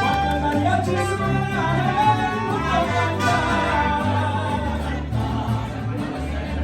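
Mariachi band playing a son, with singing over strummed guitars and a low bass line that steps from note to note.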